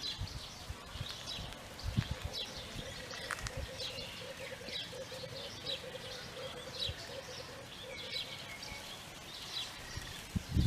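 Birds chirping with short, high calls repeated all through. A lower, pulsing bird call repeats for a few seconds in the first half.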